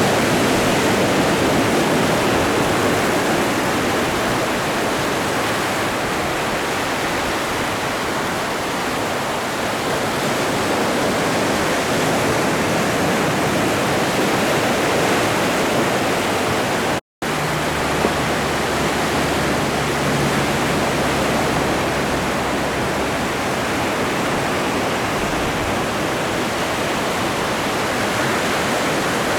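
Steady wash of Atlantic Ocean surf, a dense continuous rush of breaking waves. It cuts out completely for a split second about seventeen seconds in, then resumes.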